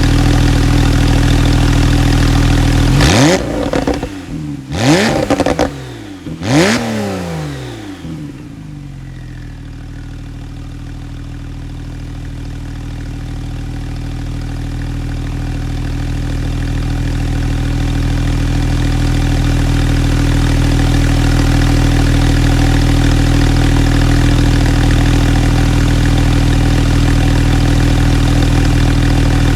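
Porsche 991.2 Carrera S twin-turbo flat-six with sports exhaust idling, then revved three times in quick succession a few seconds in, each rev rising sharply and falling away. It settles back to a steady idle that fades a little, then grows gradually louder again.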